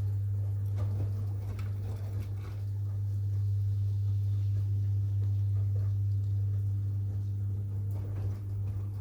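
Washing machines running a wash: a steady low hum with soft, irregular knocks and swishes of laundry tumbling in the drum.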